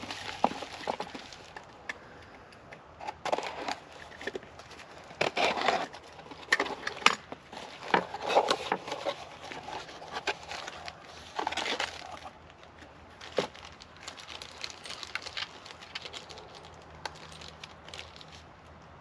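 Packaging being handled and unwrapped: irregular crinkling and rustling with scattered clicks and knocks, busiest in the first dozen seconds and thinning out after.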